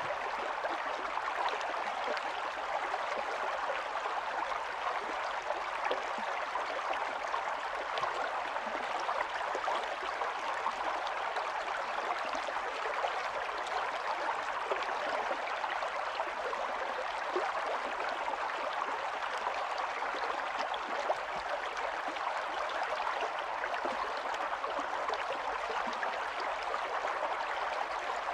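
Small stream of running water flowing and gurgling steadily over stones, an even rushing wash with fine splashing detail.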